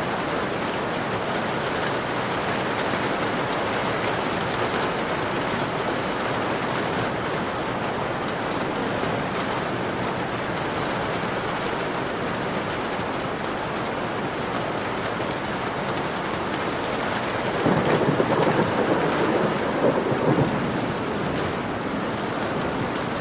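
Steady rain falling on a window. A low rumble of thunder, louder than the rain, swells for about three seconds near the end.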